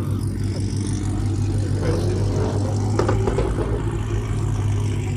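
Vehicle engine running with a steady low hum, with faint voices in the background.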